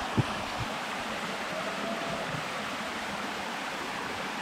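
Steady rush of a waterfall and its stream, with one light knock just after the start.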